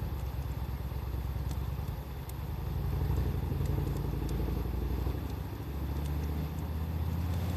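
Wood fire crackling with a few faint sharp pops, under a louder steady low rumble that swells and eases over a few seconds.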